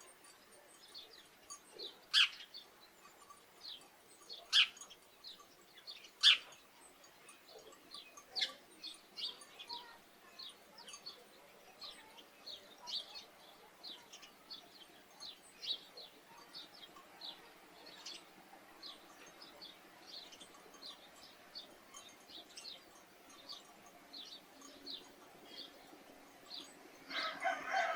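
Sparrows chirping over and over in short, high notes, with three much louder, sharp chirps in the first few seconds. Near the end a longer, lower farm-animal call begins.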